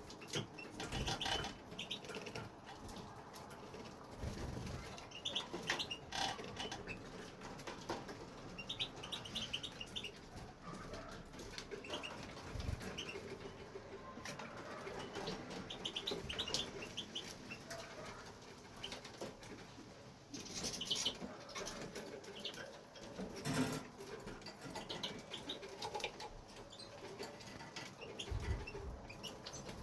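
European goldfinch in an aviary, fluttering its wings and hopping, with short chirps scattered between the flaps.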